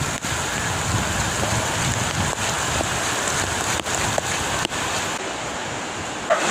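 Heavy rain pouring down steadily, with a few sharp taps.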